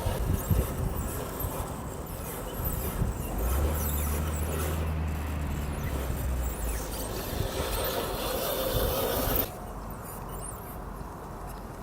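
RC scale crawler working over forest ground: rubbing and scraping of tyres and chassis, with a low steady hum of the drivetrain for a few seconds in the middle. The sound drops off abruptly near the end.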